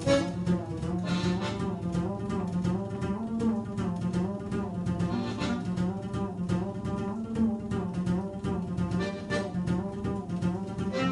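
Live instrumental music from a small acoustic band: a melody line over a steady bass part, playing without a break.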